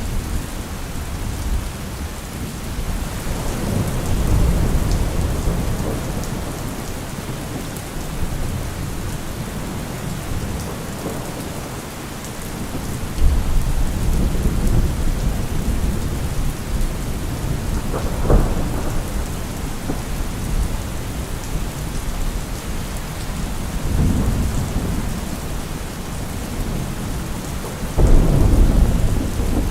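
Steady rain with thunder rumbling low several times. A sharper crack comes about 18 seconds in, and a loud rumble builds near the end.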